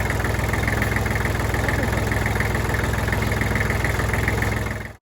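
Tractor engine idling steadily with an even, low pulsing beat. It cuts off suddenly near the end.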